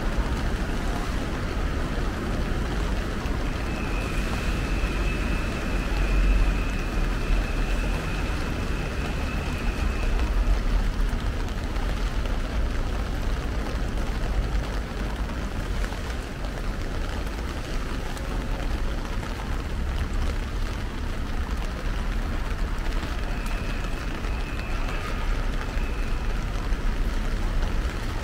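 Heavy rain pouring down and pattering on an umbrella overhead, a steady dense hiss with a deep rumble underneath.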